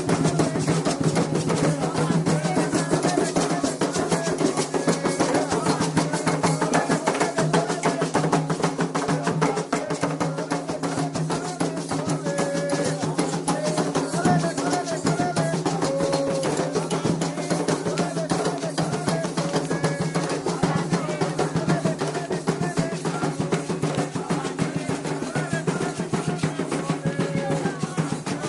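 Candomblé ritual drumming on atabaque hand drums in a fast, steady rhythm, with voices chanting over it.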